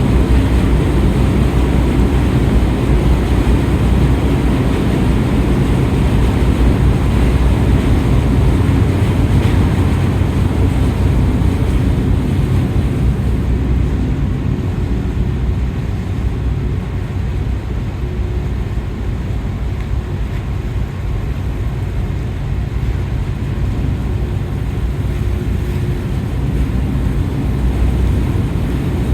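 The ferry's engines running with a steady low rumble while the ship lies at the berth, easing off slightly in the second half and rising again near the end.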